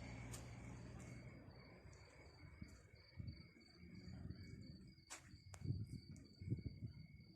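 Cricket chirping in a steady, pulsing high trill. A vehicle's engine rumble dies away in the first couple of seconds, and a few low thuds and two sharp clicks come later.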